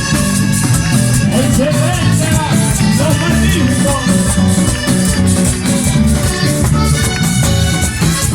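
Live vallenato band music in an instrumental passage between sung verses, loud and steady with a driving beat.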